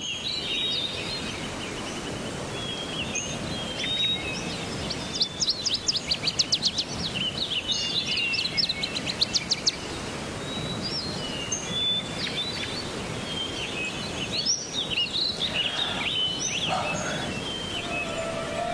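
Songbirds chirping and trilling over a steady outdoor hiss. In the middle comes a run of quick repeated trill notes.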